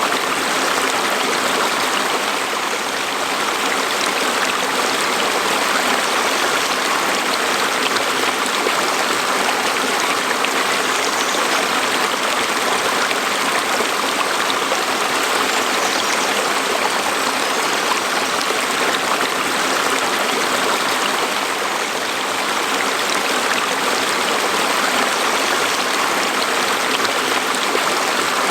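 A mountain stream flowing steadily over rocks, a continuous rush and babble of running water.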